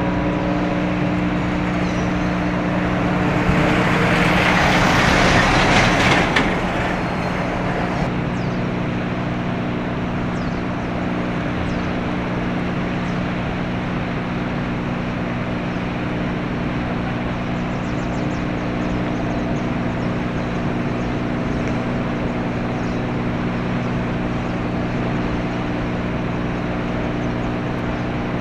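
Low, steady drone of a passing container ship's diesel engine, a stack of even hum tones. A few seconds in, a louder rush of noise swells and cuts off sharply.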